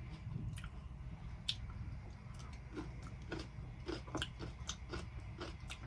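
Close-miked chewing of cucumber salad: irregular short crunchy clicks and smacks from the mouth, with no talking.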